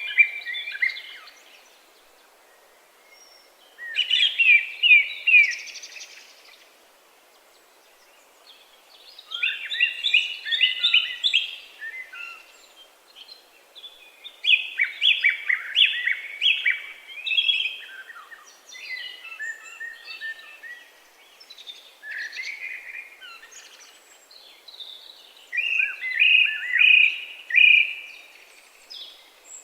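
A songbird singing short phrases of quick repeated notes, each phrase about two seconds long, repeated every few seconds with brief pauses between.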